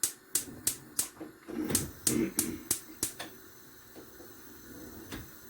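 Gas stove igniter clicking rapidly, about three sharp clicks a second, with a short rush of noise partway through as the burner is lit under the pot of plantain; the clicks stop, and one more click comes near the end.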